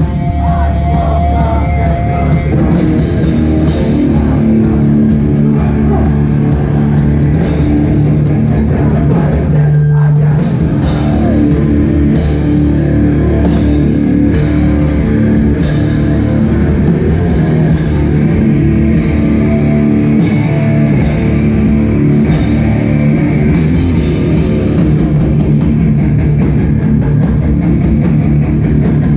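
Hardcore band playing live, loud: heavily distorted guitars, bass and drums with cymbal crashes. The band stops for a moment about ten seconds in, then comes back in.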